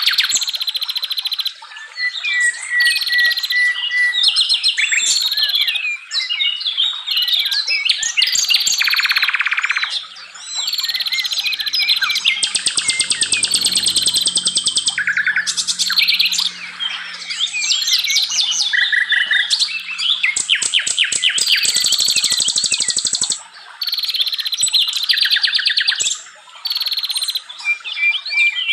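Dense chorus of forest songbirds chirping, whistling and trilling over one another, with rapid buzzy trills and a few steady whistled notes, almost without pause.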